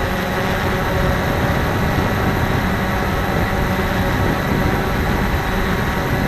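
Cheerson CX-20 quadcopter's motors and propellers whirring steadily as it comes down to land, with wind buffeting the microphone.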